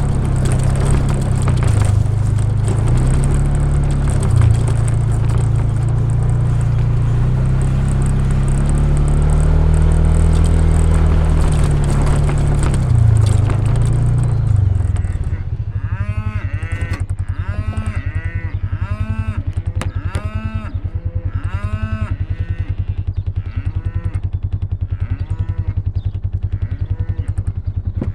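A vehicle engine running with its pitch rising and falling, then settling to a steady idle about 15 seconds in. Over the idle, cattle bawl again and again, about one call a second, each call rising and then falling.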